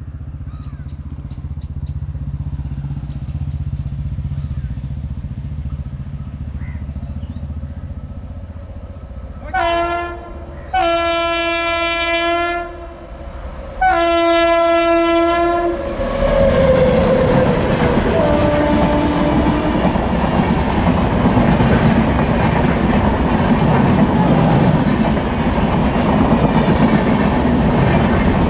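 Indian Humsafar Express train approaching with a low rumble, its locomotive then sounding the horn three times, a short blast followed by two longer ones. The train then passes close by, wheels clattering rhythmically over the rail joints under a loud, steady rush.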